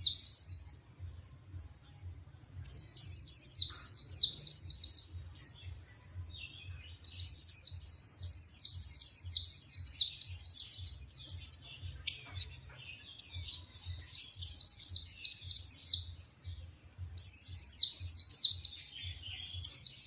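Female white-eye twittering in quick, high bouts of a few seconds each, with short pauses between them and two single down-slurred call notes about two-thirds of the way through. This is a calling female of the kind played to excite male white-eyes into song.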